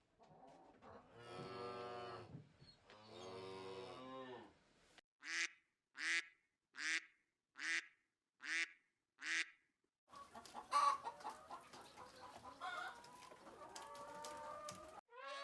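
Two long, low cattle moos, followed by six short, high calls evenly spaced under a second apart, then a busy jumble of farm-animal calls and clatter.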